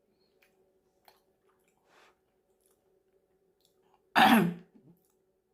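A single sharp cough from a woman about four seconds in, following a quiet stretch with a faint steady hum. The cough comes as the heat of the spicy chili-paste rice cakes catches her throat.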